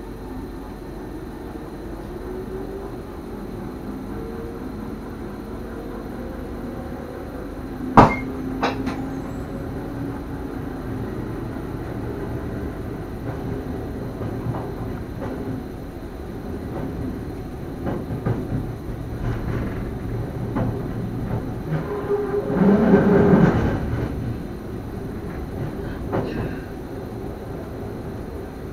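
NS Sprinter passenger train running on the track, heard from inside the driver's cab. There is one sharp click about eight seconds in, and a louder stretch with a brief whine a few seconds before the end.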